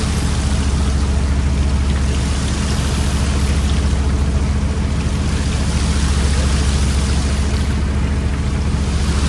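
Fishing boat's engine running steadily with a low hum, under a continuous rush of water as the set net is hauled.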